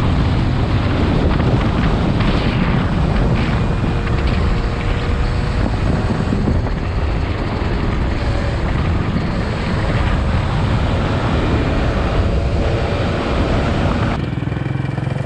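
Pit bike being ridden, its small single-cylinder engine running under heavy wind buffeting on the action-camera microphone. About a second before the end the wind noise drops away, leaving a steadier engine note.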